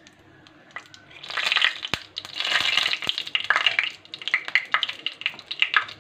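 Whole dried red chillies sizzling and crackling in hot oil, starting about a second in, with a few sharp clicks among the crackle.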